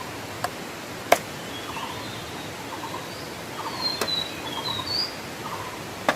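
Animal calls, likely birds: short trilling calls repeating about every three-quarters of a second over a steady hiss, with higher chirps in the middle. A few sharp clicks cut in, the loudest about a second in and another right at the end.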